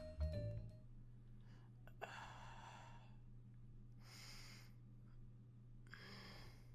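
Three heavy sighs, each under a second long and about two seconds apart, over a faint low steady hum.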